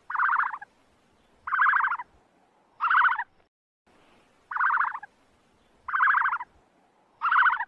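An animal calling: six short, evenly repeated calls, about one every second and a half.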